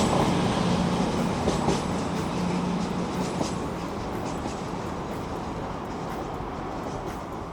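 A Class 220 Voyager diesel multiple unit moving away, its engine hum and rail noise slowly fading.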